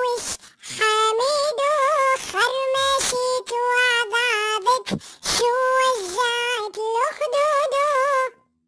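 A high-pitched, child-like singing voice in a children's song, singing phrases of held notes with short breaks between them. It stops shortly before the end.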